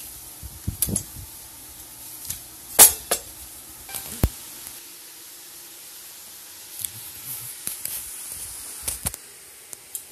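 Scattered knocks and clicks, the loudest about three seconds in, over a faint low hum that stops about halfway through.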